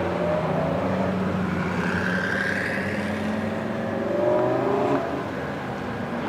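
Car engine running at a distance with a steady low drone; about three and a half seconds in, a second engine note climbs in pitch as a car accelerates, loudest just after four seconds.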